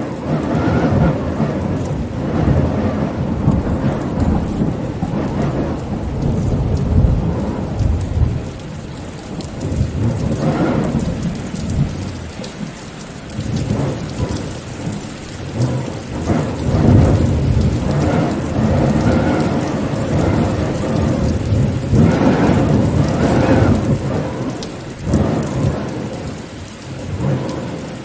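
Steady rain with a deep rolling rumble that swells and fades every few seconds.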